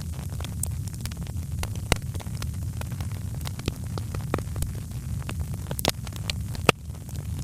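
Wood fire crackling in a fireplace: irregular sharp pops and snaps over a steady low rumble, with a few louder snaps about two seconds in and near the end.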